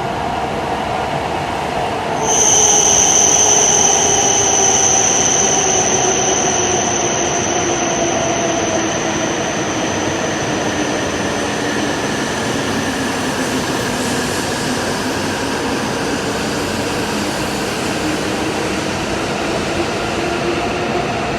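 Hokuriku Shinkansen train running, its motor whine gliding down in pitch and later rising again over a steady rail noise. About two seconds in, a loud high-pitched squeal starts and slowly fades away.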